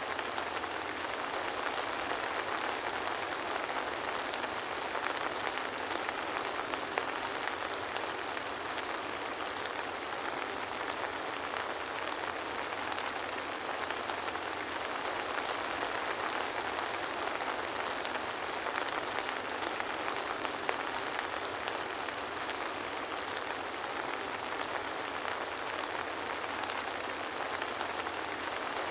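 Soft, steady rain falling without let-up, an even hiss sprinkled with faint drop ticks; no thunder.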